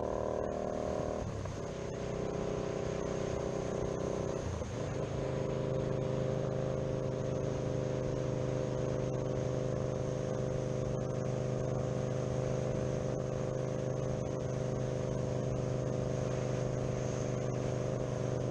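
2018 Indian Scout Bobber's V-twin running through a Dirty Bird Concepts aftermarket exhaust. The engine note changes twice in the first five seconds, then holds at a steady pitch.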